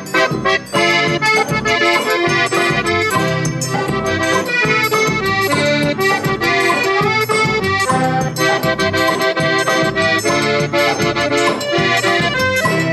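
Baião music in an instrumental break: an accordion plays the melody over a steady rhythmic percussion backing.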